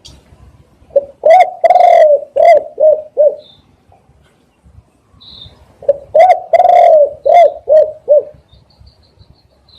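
Spotted dove cooing: two phrases of about six or seven short, rounded coos, each with a longer drawn-out note near its start, a few seconds apart. A few faint, high chirps from a small bird are heard between the phrases.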